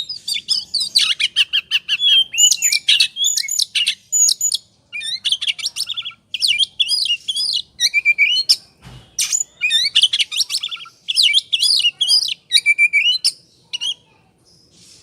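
Oriental magpie-robin (kacer) singing hard in its excited 'ngobra' breeding state: a fast, unbroken run of loud whistles, trills and chirps that varies from phrase to phrase. It stops about a second before the end.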